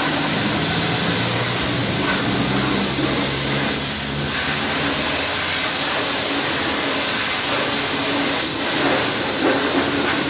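Pressure washer running, a steady hiss of spray over the low hum of its pump motor.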